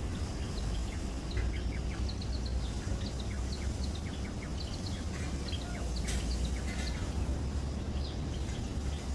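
Small birds chirping, many short high notes repeated throughout, over a steady low rumble. A brief sharp noise comes about six seconds in.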